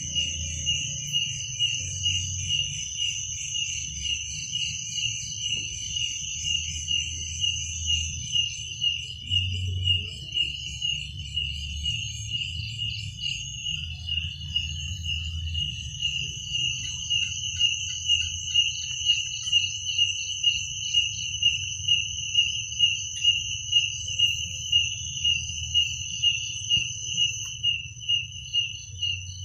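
Crickets chirping at night in regular pulsed chirps, roughly one and a half a second, over a second, higher continuous trill. A low rumble lies underneath.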